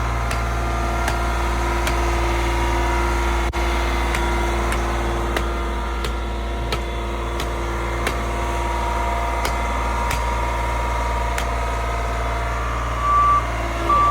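Engine of heavy paving equipment running steadily, with a deep hum and scattered faint clicks. Near the end a backup alarm starts beeping.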